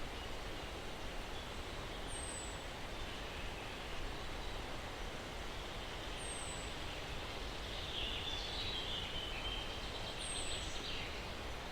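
Steady breeze-like hiss through pines with birds calling: a short high chirp about every four seconds, and a brief burst of twittering about two-thirds of the way through.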